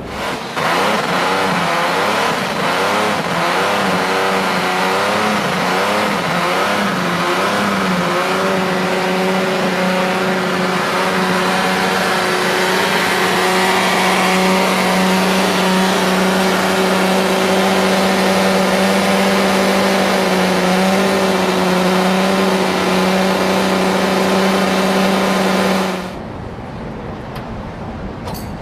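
Classic car engine revving, its pitch rising and falling for several seconds, then held at a steady high pitch for a long stretch before cutting off abruptly near the end.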